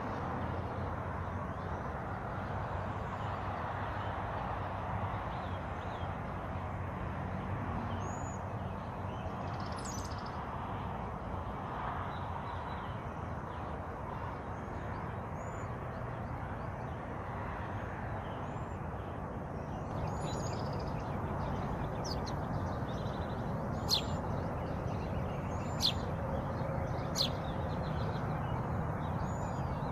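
Wild birds chirping, with small high notes scattered through and several sharp, louder chirps in the last third, over a steady rushing background noise.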